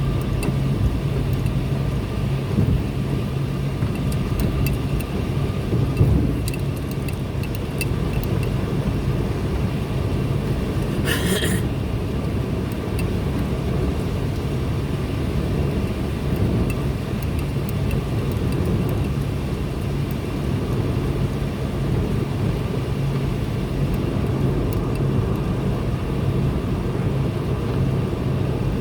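Car driving on a highway: a steady engine drone with tyre and road rumble. A brief hiss comes about eleven seconds in.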